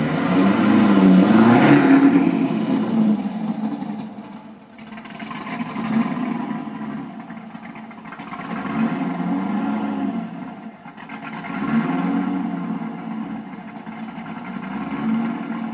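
Car engine being revved over and over, its pitch and loudness swelling about every three seconds, with the strongest rev in the first few seconds.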